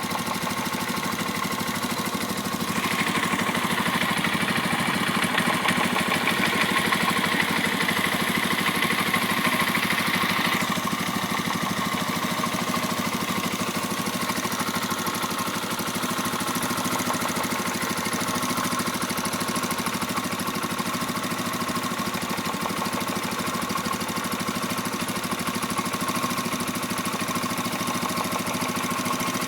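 Pioneer Nevada motorcycle engine idling steadily, with a slight knock about every five seconds. The owner notes that the bike is brand new and unridden, so the knock is not from wear. A higher-pitched noise joins the idle for about eight seconds, starting about three seconds in.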